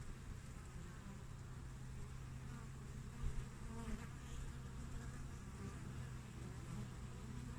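Honeybees flying at the entrance of their hive: a steady, low hum of many wings, briefly louder about three seconds in.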